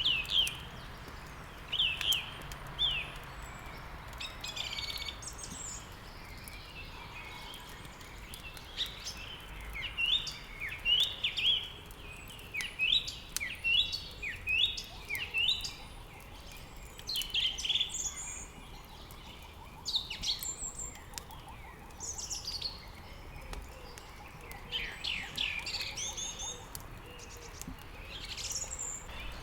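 Songbirds chirping and singing throughout in short, repeated falling-pitch notes, over the faint crackle and scattered pops of wood burning in a fireplace.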